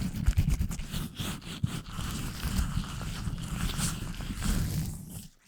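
Latex-gloved hands rubbing and scratching directly on a microphone: a continuous rough, crackly rubbing over a deep handling rumble, which stops briefly near the end.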